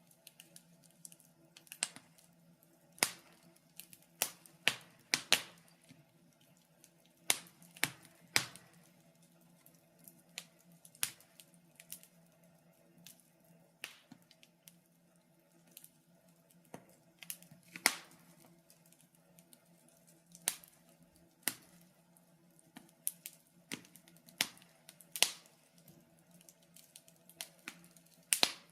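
Wood fire crackling, with sharp pops at irregular intervals, roughly one or two a second, over a faint steady low hum.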